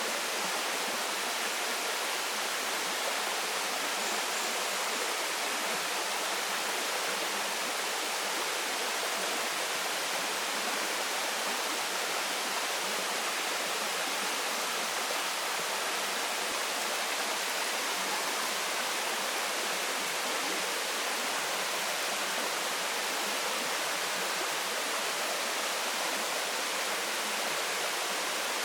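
Waterfall pouring steadily into a stream, an even rushing of water.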